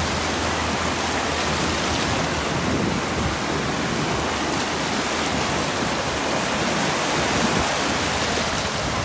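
Steady rushing noise of waves washing on a sandy beach.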